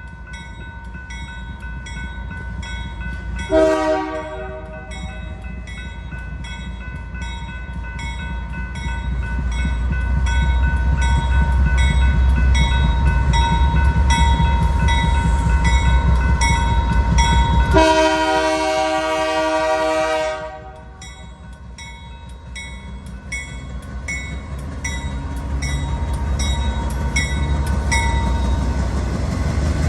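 A freight train's leading GE AC4400CW locomotive sounds its Nathan K3L air horn: a short blast about three and a half seconds in, then a long blast of about three seconds near the middle. Under the horn, the diesel locomotives' deep rumble builds as they pull through, and a level-crossing bell dings steadily.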